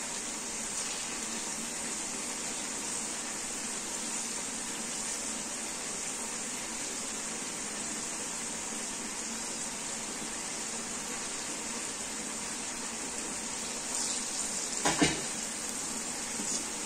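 Green beans deep-frying in hot oil: a steady sizzle. Near the end a metal spoon clanks sharply once against the pan.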